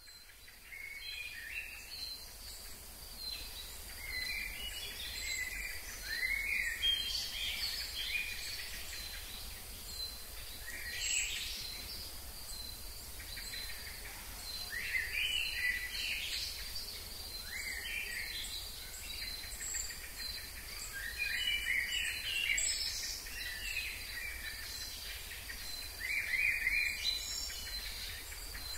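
A songbird singing short, rapid, complex phrases that repeat every few seconds, over a steady high insect drone.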